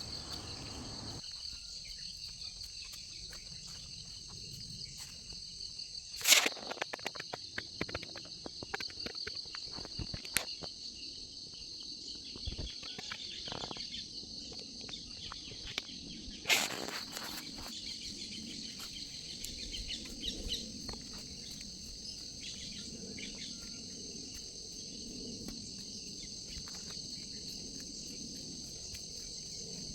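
Steady high-pitched chorus of insects, with scattered sharp clicks and crackles, the loudest about six seconds in and again about sixteen seconds in.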